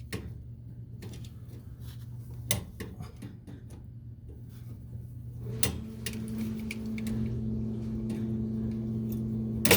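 Small metal clicks and taps of a flathead screwdriver prying at a cotter pin on a boiler's pilot-assembly tube, with a sharp knock near the end. A steady low hum runs underneath and gets louder about six seconds in.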